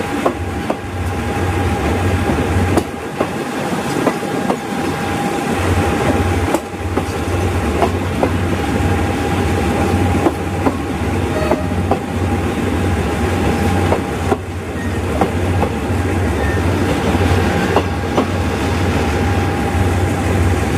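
Passenger train coaches rolling slowly past, steel wheels clicking over rail joints every second or so, over a steady low rumble and a thin steady whine.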